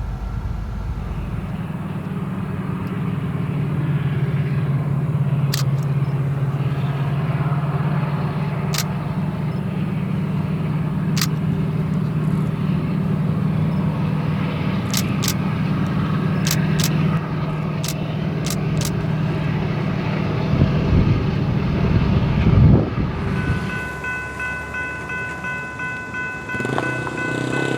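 A train running: a steady low rumble with scattered sharp clicks. The rumble ends about 23 seconds in, and a steady high tone of several pitches follows.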